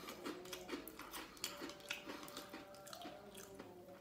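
Faint chewing while eating, with soft, irregular mouth clicks. A few faint steady tones sit underneath.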